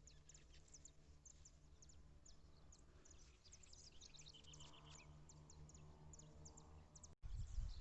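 Faint birdsong outdoors: many short, high chirps in quick succession over a low steady hum. Near the end it cuts off abruptly into louder low rumbling noise.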